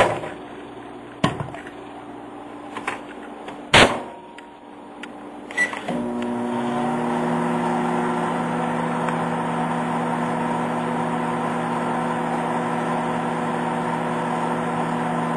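A few sharp clicks and one loud knock, a brief high tone about five and a half seconds in, then a microwave oven starts and runs with a steady hum.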